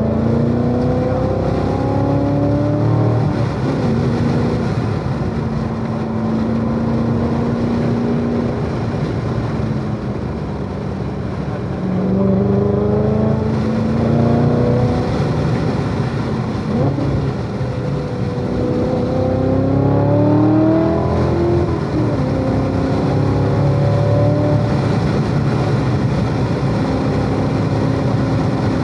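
Supercharged 6.2-litre V8 of a C7 Corvette Z06 driven hard on track. Its pitch climbs under acceleration and drops sharply at shifts and lifts several times.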